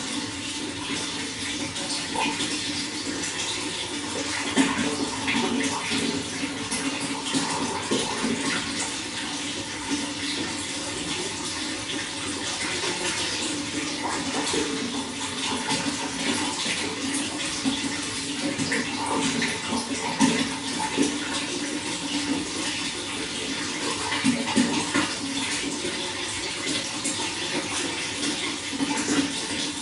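Running water flowing and splashing steadily, with frequent small splashes.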